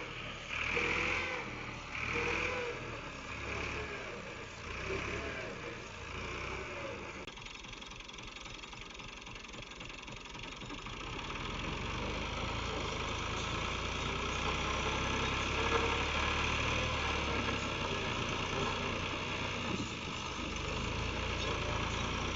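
Tractor engine running steadily, growing louder from about eleven seconds in.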